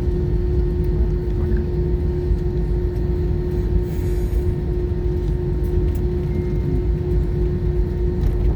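Cabin noise of an Airbus A320 taxiing: its CFM56-5B engines at idle, giving a steady low rumble with a constant hum over it, heard from inside the cabin.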